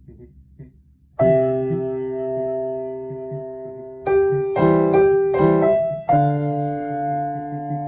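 Piano music at a slow pace. After a fading tail, a chord is struck about a second in and held, then several chords follow quickly, and another chord is struck and held near the end.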